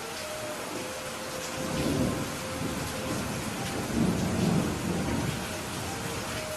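Steady rain falling, with low thunder rumbling up twice, briefly about two seconds in and more strongly about four seconds in.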